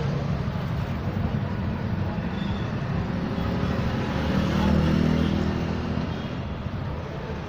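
Road traffic noise, with a motor vehicle's engine swelling as it passes about four to five seconds in.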